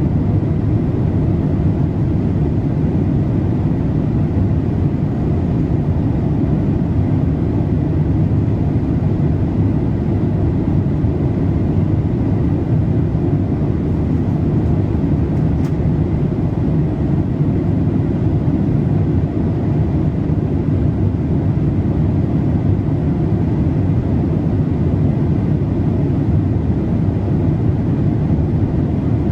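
Boeing 787-8 passenger cabin noise in flight: a steady, even rush of airflow and engine noise, deep and unchanging.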